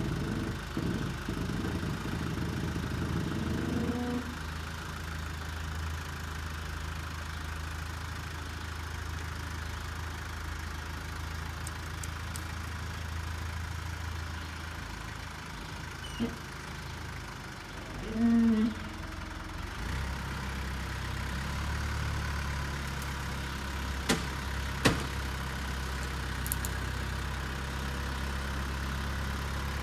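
Tractor engine running steadily while dragging a heavy box-truck body, near the limit of what it can pull. About two-thirds of the way in the engine note steps up, as with more throttle or load. Just before that there is a brief, louder squeak-like sound, and a couple of sharp knocks follow near the end.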